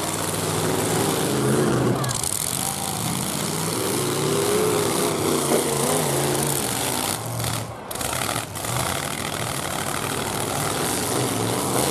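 Several demolition derby trucks' engines running and revving together, their pitch rising and falling as the drivers work the throttle.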